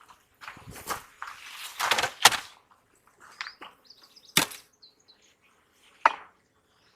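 Wooden beehive parts knocking and scraping as the hive is handled: a handful of sharp knocks, the loudest about two and a quarter seconds in. Birds chirp faintly in the background.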